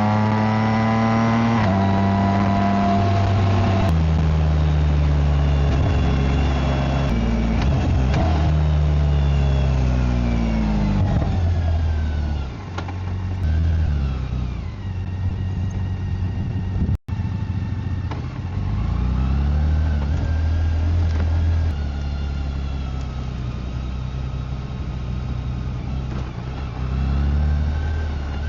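BMW K1600GT's inline-six engine and exhaust under way on the road. The pitch steps through gear changes, falls as the bike slows, then rises and falls again. The sound drops out for an instant about two-thirds of the way through.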